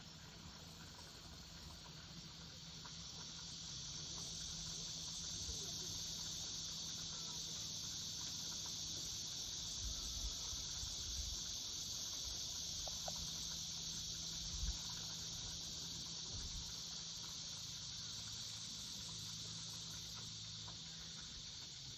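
Cicadas and grass insects in a steady high-pitched chorus, swelling a few seconds in and easing slightly near the end. A few soft low thumps come through, the clearest about two-thirds of the way in.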